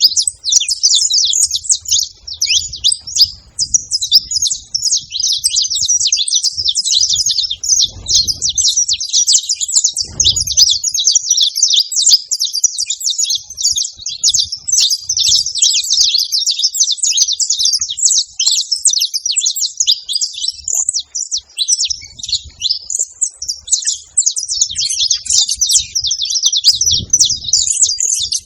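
A flock of saffron finches chirping continuously, many calls overlapping at once. A few dull low thumps come through about a third of the way in and near the end.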